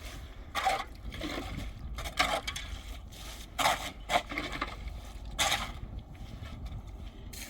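Irregular scraping strokes of a hand tool, about one a second, some louder than others.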